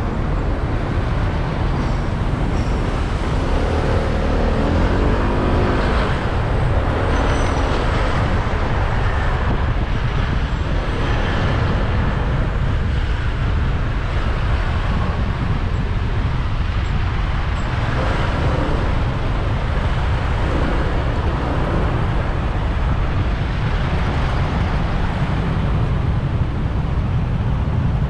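Motorbike riding in city traffic: its engine and the surrounding road traffic run steadily over a deep rumble. A pitched engine sound swells briefly about four seconds in.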